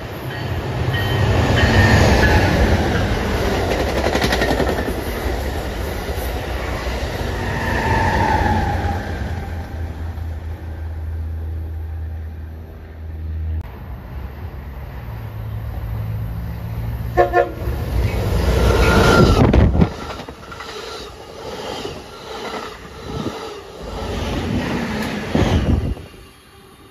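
Amtrak passenger trains passing at speed: rushing wheel and engine noise over a steady low rumble, with a horn sounding and dropping in pitch as the train goes by. The sound changes abruptly twice, as if between separate passes.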